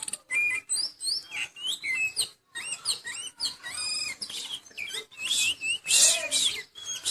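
Oriental magpie-robin (kacer), a bird in moult, singing a fast, varied song of sharp whistles, rising and falling sweeps and chattering notes with short pauses between phrases.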